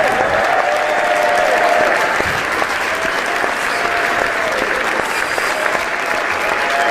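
A large audience applauding steadily with dense, even clapping. A few voices call out over it.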